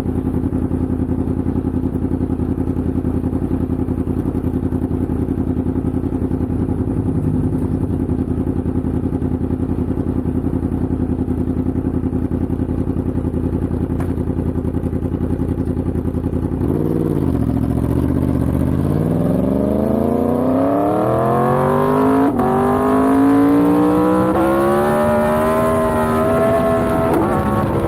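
Yamaha MT-10's crossplane inline-four engine running steadily at low revs, then, about two-thirds of the way through, dipping and pulling away under acceleration with a rising pitch, shifting up about a second in mid-climb and again near the end.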